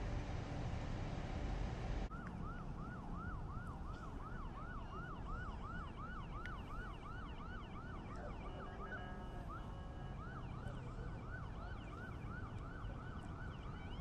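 A steady vehicle rumble that cuts off abruptly about two seconds in, followed by an emergency vehicle siren in yelp mode: fast rising-and-falling wails, about three a second. About two-thirds of the way through it briefly switches to a different stepped tone pattern, then goes back to the yelp.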